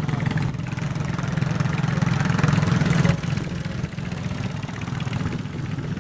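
Garden tractor engine running steadily, its level dropping about three seconds in.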